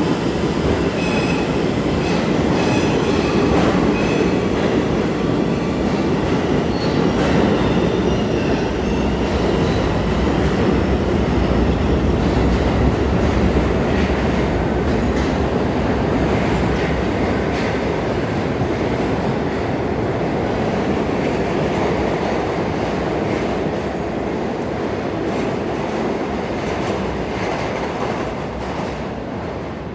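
New York City Subway R211A train running along the track: a steady rumble of wheels on rail, with a thin wheel squeal in the first few seconds and scattered clicks from the rails. The noise eases off near the end.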